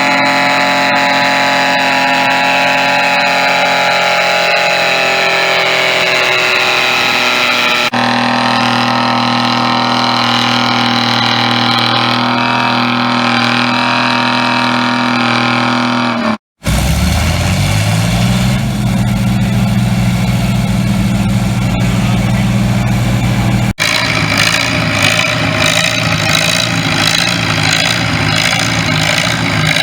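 Tractor engines running in several short cuts, with a steady pitch in each; about halfway through, one engine picks up and revs to a higher steady speed.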